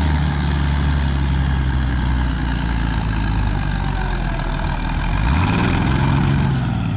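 Antique farm tractor engine running steadily under load in a pull, its pitch rising about five seconds in.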